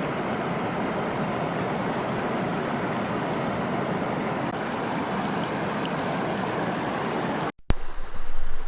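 Fast river water rushing steadily. About seven and a half seconds in, it cuts off abruptly, followed by low rumbling bumps on the microphone.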